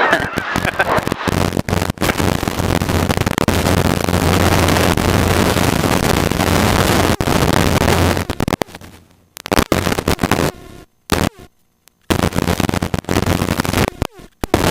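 Helicopter cabin noise in flight: a loud, harsh hiss with a steady low hum underneath. After about eight seconds the sound starts cutting in and out, with several short dropouts to near silence.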